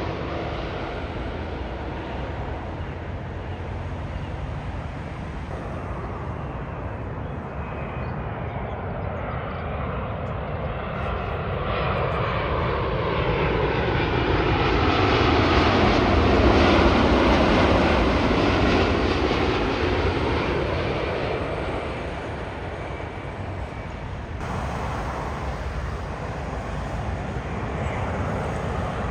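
Twin-engine wide-body jet airliners on final approach. About midway a Boeing 787-9 passes close, its engine noise swelling to a peak as the whine slides down in pitch going by. The sound cuts abruptly to another approaching jet near the end.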